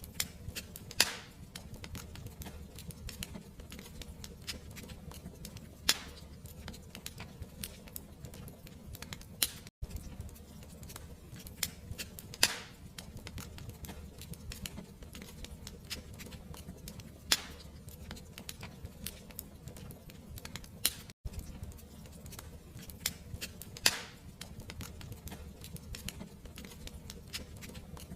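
Fire crackling: irregular sharp snaps and pops, a few much louder than the rest, over a low steady rumble. The sound cuts out for an instant twice.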